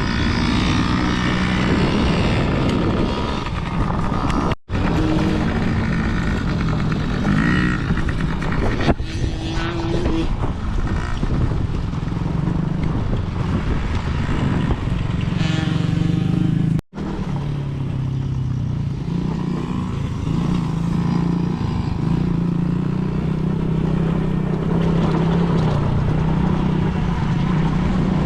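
Dirt bike engines running, a continuous engine note that shifts in pitch with the throttle. It cuts out suddenly and briefly twice, once about four and a half seconds in and again about seventeen seconds in.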